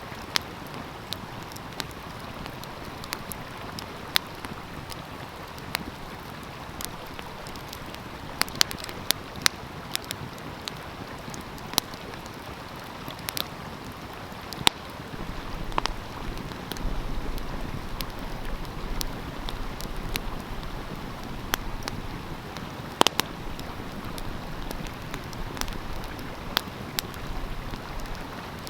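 Wood fire crackling, with scattered sharp pops now and then, over the steady rush of a flowing stream. About halfway through a low rumble joins in.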